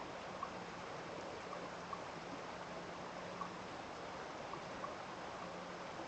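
Running water after rain: a steady rush with small water plinks roughly once a second.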